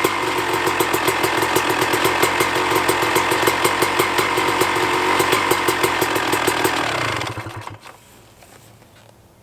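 2000 Honda CR250's single-cylinder two-stroke engine idling with a steady, quick popping beat, warmed up after a cold start; about seven seconds in it is shut off and runs down to a stop.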